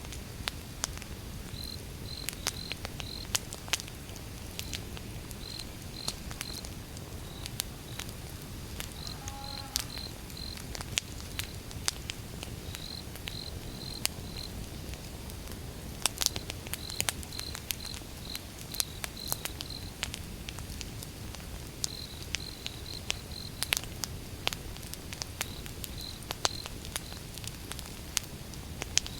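Wood fire crackling with irregular sharp pops over a low rumble of the flames, while crickets chirp in short repeated bursts.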